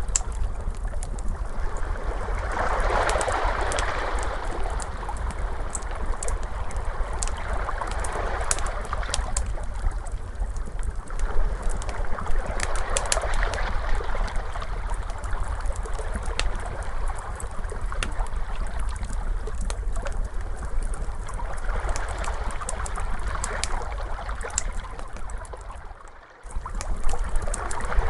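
Ocean waves washing in and out in slow swells every few seconds, with a wood fire crackling in sharp pops over a steady low rumble. The sound dips out briefly near the end and comes back.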